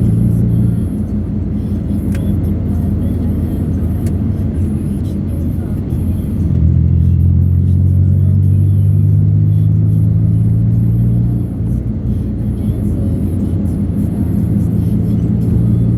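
Road vehicle's engine running under way, heard from on board over a constant rumble of road noise; a few seconds in, the engine note grows louder and holds steady for about five seconds, then eases off.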